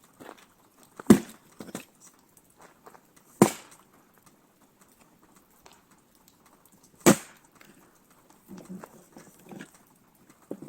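Three loud, sharp knocks, about a second in, three and a half seconds in and seven seconds in, with fainter knocks and a soft patter between them.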